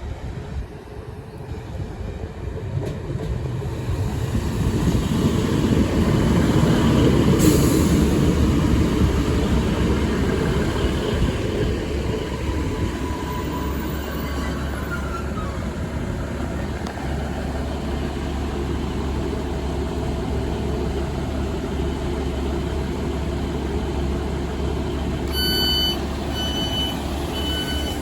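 Passenger train running, its rumble building over the first several seconds and then holding steady. Near the end a run of short electronic beeps repeats at an even pace.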